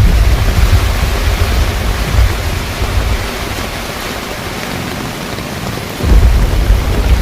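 Heavy rain pouring steadily on a car rooftop tent, with a deep, uneven low rumble under it that dies down in the middle and comes back suddenly about six seconds in.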